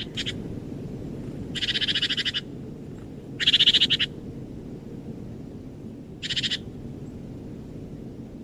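An animal calling in short, rapid trills, four times a couple of seconds apart, the third the loudest, over a steady low background rumble.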